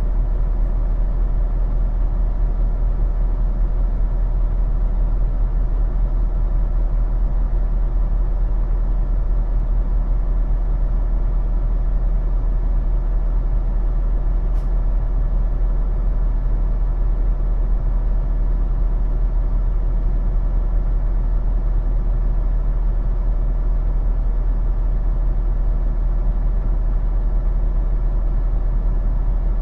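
Heavy diesel engine of a semi truck idling steadily, a low constant hum with an even drone on top. A single faint click sounds about halfway through.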